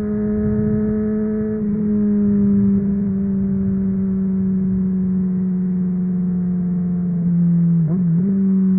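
Honda CBR600RR inline-four engine running through its MIVV exhaust at a steady engine speed, its note sinking slowly as the revs fall. Near the end the pitch briefly dips and wobbles before settling.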